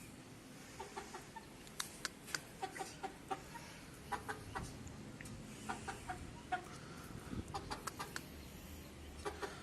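Chickens clucking, in short scattered clucks.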